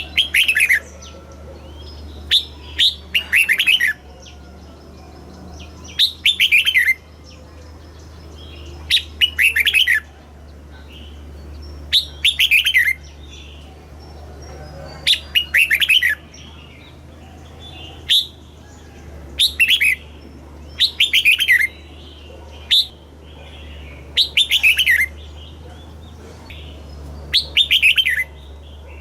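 Red-whiskered bulbul singing: short, bright phrases of quick descending notes, repeated about every three seconds, over a steady low hum.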